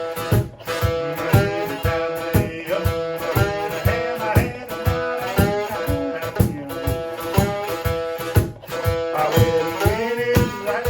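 A one-string guitar playing a blues line, its notes sliding up and down in pitch, over a steady cajon beat.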